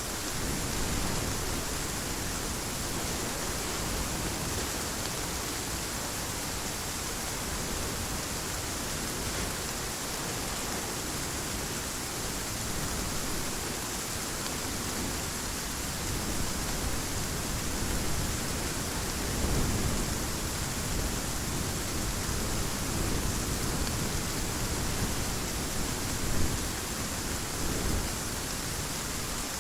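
Heavy rain falling steadily, a dense even hiss, with low rolling thunder rumbling in the second half and swelling a few times near the end.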